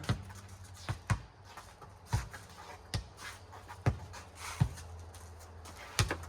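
A rubber playground ball bouncing on pavement and being slapped back and forth in a four square game: about eight sharp thuds at irregular intervals, roughly a second apart.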